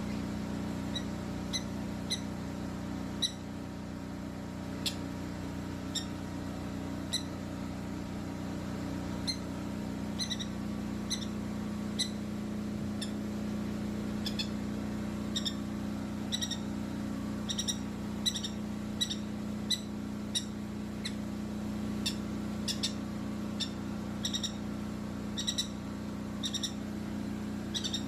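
Baby bird chirping during handfeeding: short, high, sharp peeps at irregular intervals, coming faster in the second half. A steady low hum runs underneath.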